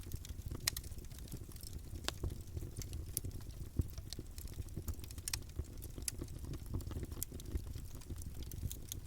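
Campfire burning: wood crackling with irregular sharp pops and snaps over a low, steady rumble of the flames.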